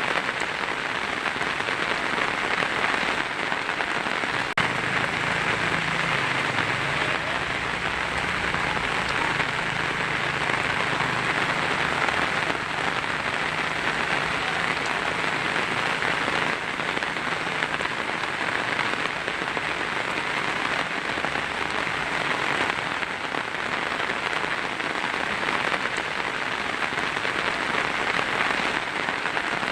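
Heavy rain falling steadily on a tin roof, an even, unbroken patter, with a faint low rumble underneath from about five seconds in until about eighteen seconds.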